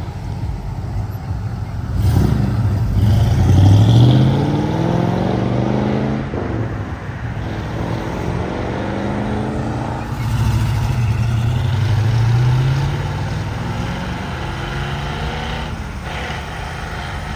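Cars accelerating away one after another, with engines revving up. One climbs in pitch from about two seconds in and peaks near four seconds; another revs up around ten seconds in. Idling and passing traffic run underneath.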